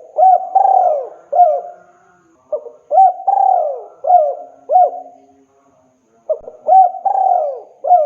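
Spotted dove (tekukur) cooing: three phrases of several hooked coo notes each, one about every three seconds. This is the male's call to a female.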